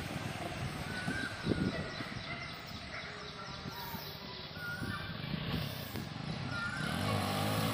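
A bird calling over and over, a short call about every two seconds, above a low uneven rumble.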